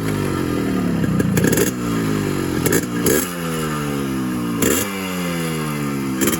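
Yamaha RX100's 98 cc two-stroke single-cylinder engine being revved: the revs jump sharply about five times and sag back between each throttle blip.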